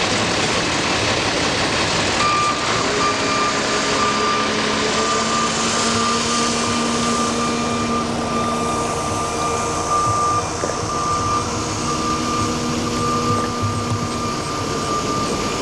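Heavy truck or construction machine engine running, with a reversing alarm beeping at a steady high pitch from about two seconds in; the engine note rises early on and drops away near the end.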